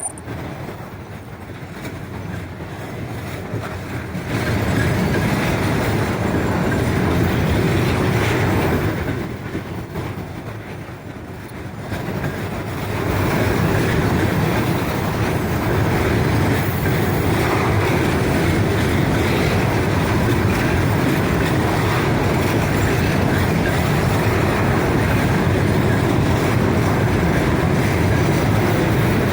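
Long mixed freight train rolling past, its wagon wheels clattering over the rails with a steady rumble. The noise dips for a few seconds in the middle, then returns at full level.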